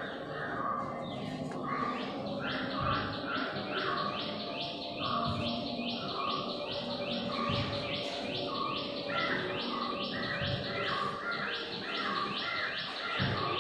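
Birds chirping: one repeats a short high call about three times a second from a couple of seconds in, over lower, slower calls from other birds.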